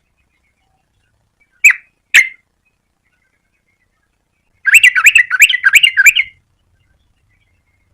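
Yellow-vented bulbul singing: two short single notes about two seconds in, then a quick run of notes lasting about a second and a half.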